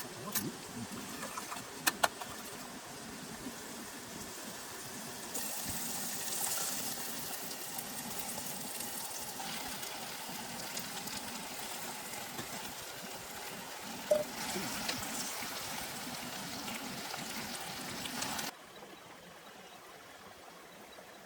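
Steady rain falling, an even hiss that grows brighter about five seconds in and drops off suddenly near the end, with a few sharp knocks early on and once midway.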